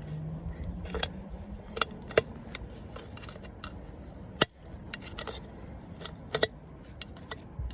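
Metal tin can being prised open with a screwdriver: irregular sharp metallic clicks and scrapes as the lid edge is worked and bent back.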